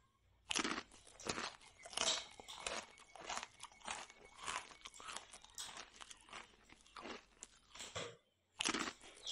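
Close-up chewing of fried puri (luchi), a steady run of chews about two a second, breaking off briefly near the end.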